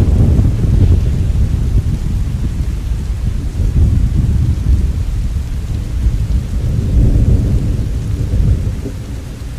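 Thunder rumbling over steady rain, swelling again about seven seconds in and easing off near the end.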